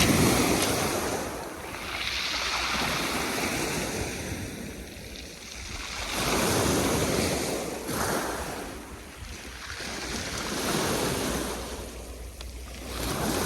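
Sea waves washing onto a pebble beach, the surf swelling and ebbing every few seconds.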